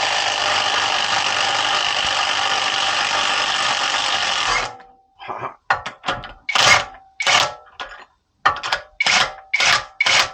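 Impact wrench hammering on the CV axle nut of a Range Rover L322 for about five seconds, then a string of about nine short trigger bursts as the nut breaks loose and comes off.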